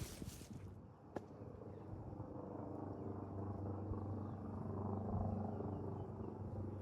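A steady, low, even-pitched motor hum, like an engine running at idle, with one sharp click about a second in and faint short bird chirps above it.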